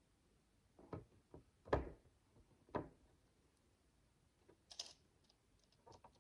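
Miniature plastic micro bricks being handled and pressed together: a few soft separate knocks and clicks, the loudest a little under two seconds in, then a brief higher rustle and a few light ticks.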